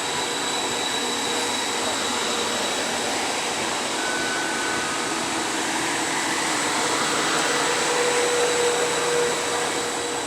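Train at a railway station: a steady rushing noise with faint whining tones, swelling slightly near the end.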